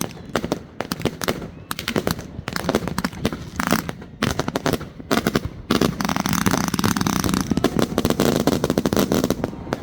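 Fireworks going off: many separate sharp bangs, then from about six seconds in a dense, rapid run of crackling reports that lasts several seconds.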